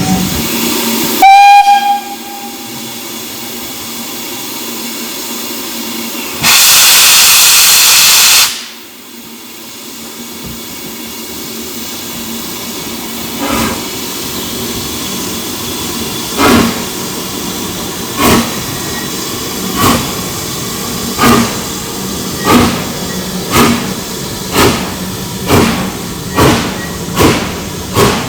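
Steam locomotive whistle giving a short blast about a second in, then a loud hiss of steam for about two seconds. Exhaust chuffs then begin and quicken steadily as the locomotive starts away.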